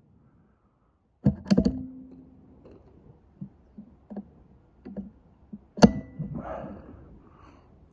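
PCP air rifle firing: a sharp report about a second in and another near six seconds, with lighter clicks between them.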